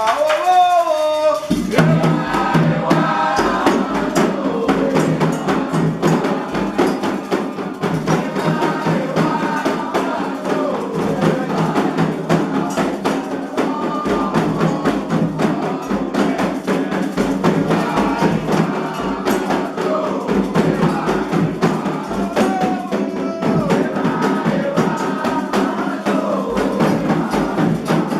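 Candomblé chant for Xangô: a lone voice sings, then about a second and a half in, drums, other percussion and a chorus of voices come in and keep a steady rhythm.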